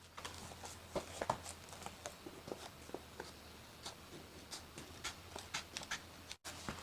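Scissors cutting coloured paper glued onto cardboard: faint, irregular snips and scratches.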